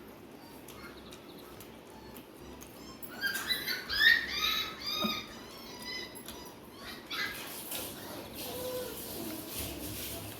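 A small animal's high-pitched calls: a quick run of short squeaky cries starting about three seconds in, followed by a few faint clicks.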